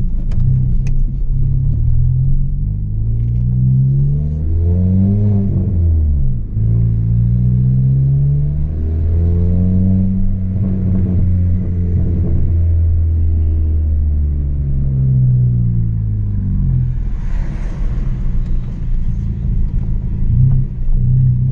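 Chevrolet Astra 2.0 four-cylinder engine through a straight-through exhaust with no muffler, accelerating with the revs climbing, dropping sharply about six seconds in, then climbing again. The revs hold for a few seconds, then fall back to a low steady rumble.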